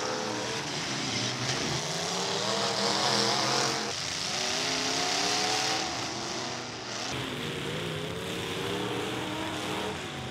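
Several demolition derby cars' engines revving hard, their pitches rising and falling over one another.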